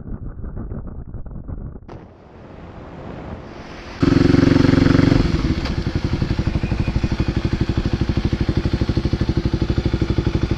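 Kawasaki KLX250SF supermoto's single-cylinder engine: first heard muffled under wind while riding, then, from about four seconds in, loud and clear, running higher for about a second before settling into an even, pulsing idle.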